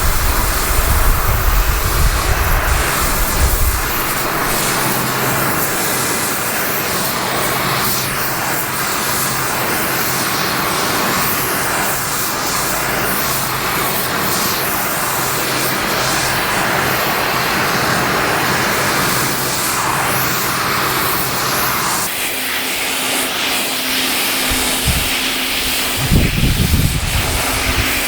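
Gas burner flame running with a steady, loud hiss while it heats a stainless steel part for forging; the sound's character shifts about four seconds in and again a few seconds before the end.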